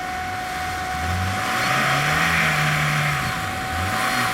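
Off-road 4x4's engine revving: it climbs about a second in, holds high for a second or so, drops back near three seconds and starts climbing again near the end.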